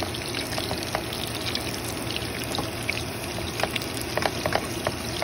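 Ground beef patties sizzling in hot oil in a frying pan: a steady hiss with scattered pops and crackles of spattering fat, a few louder ones past the middle.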